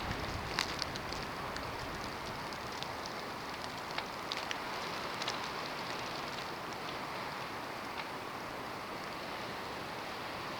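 Snowstorm: a steady hiss of wind-driven snow, with scattered light ticks.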